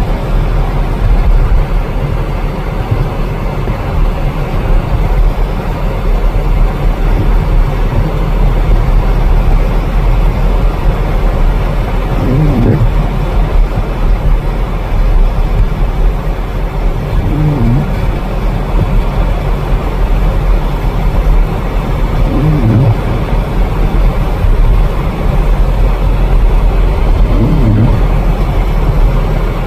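Steady low engine and road rumble of a car being driven. In the second half, a short sound that rises and falls comes back about every five seconds, four times.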